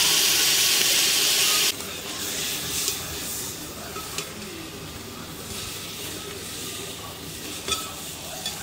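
Chopped onions and spices frying in oil in a metal pot over a wood fire: a loud sizzle that drops off suddenly after about two seconds, then a quieter sizzle as a steel ladle stirs, clinking against the pot a few times.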